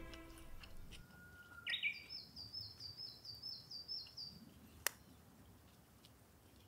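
A small bird singing a quick run of repeated high, down-slurred notes, about four a second, for a couple of seconds, then a single sharp click.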